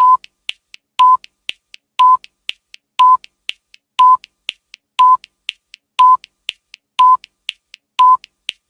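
Quiz countdown timer sound effect: a short electronic beep once a second, with fainter ticks between the beeps.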